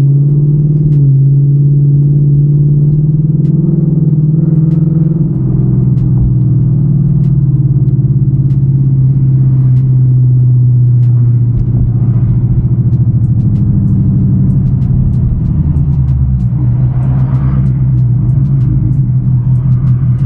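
Car engine and exhaust droning steadily while driving in traffic, heard from inside the cabin, with the note easing a little about two-thirds of the way through. No loud backfire is heard.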